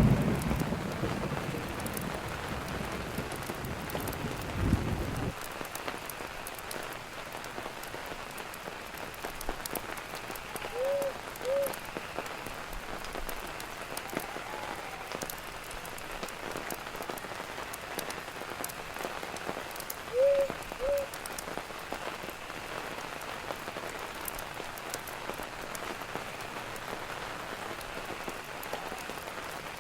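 Steady rain falling, with a low thunder rumble that stops abruptly about five seconds in. Twice, a short pair of chirps sounds over the rain.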